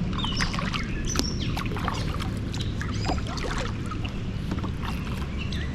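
Many short bird chirps and whistles, some sliding in pitch, scattered over a steady low rumble of wind on the microphone.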